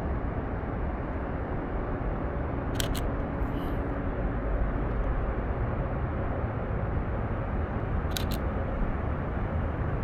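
Canon EOS RP camera shutter firing twice, each release a quick double click, about three seconds in and again about eight seconds in, over a steady low background rumble.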